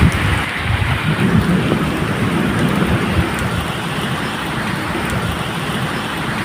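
Medium rain falling steadily, with a low rumble of thunder underneath.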